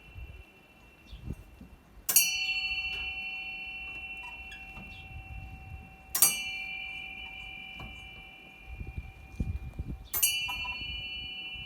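A metal bell struck three times, about every four seconds, each strike ringing on and slowly fading.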